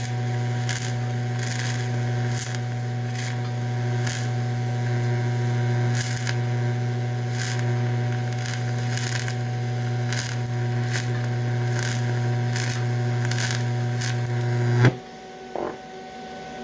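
DC electrode-positive TIG welding arc on aluminum, a steady electrical hum with short crackles recurring a little more than once a second. The arc cuts off about fifteen seconds in.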